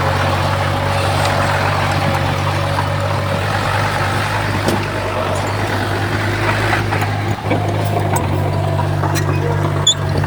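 Komatsu D31P bulldozer's diesel engine running steadily, with a few short knocks.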